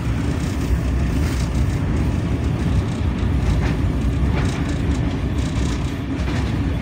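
Moving passenger train heard from inside the carriage: a steady low rumble of the wheels on the track, with a few faint clicks.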